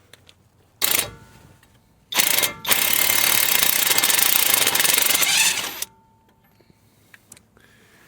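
Impact wrench hammering on a brake caliper bracket bolt: a brief burst about a second in, another short one about two seconds in, then a steady run of about three seconds that stops suddenly.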